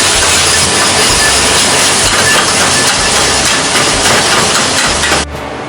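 Food sizzling in a hot frying pan: a steady hiss with faint crackles that cuts off abruptly about five seconds in.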